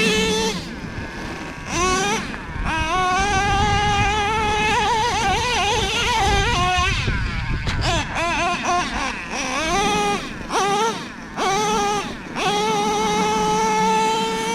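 Nitro RC monster truck's O.S. 21TM two-stroke glow engine running at high revs, a high-pitched whine. The throttle is cut and opened again and again, so the pitch falls and climbs repeatedly, before it is held steady at high revs for the last two seconds or so.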